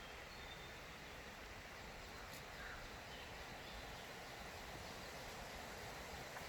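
Quiet forest ambience: a faint steady hiss with a few faint bird calls in the first second or so, and a single soft click a little over two seconds in.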